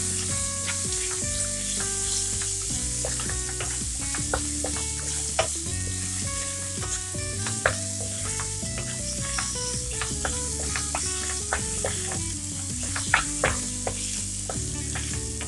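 Grated raw mango and tempering sizzling in hot oil in a nonstick pan, stirred with a wooden spatula that clicks and scrapes against the pan now and then. A melody of background music plays throughout.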